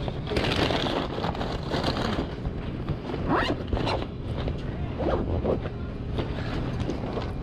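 Wind rumbling and buffeting on an unshielded action-camera microphone while riding a Yamaha R3 sport bike. Behind it the bike's engine rises briefly in pitch a few times, once near the middle and again a little later.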